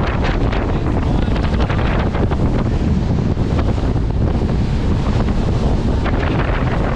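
Wind buffeting the microphone aboard a moving boat: a steady, loud, low rumble of noise.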